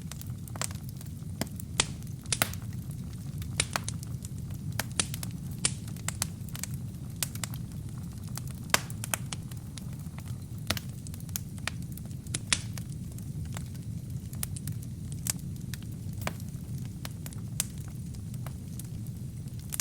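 Wood fire burning in a fireplace: a steady low rumble of flames with sharp, irregular crackles and pops from the burning logs, a few of them much louder than the rest.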